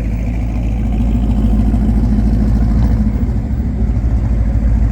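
Car engine running steadily close by, loud and low-pitched.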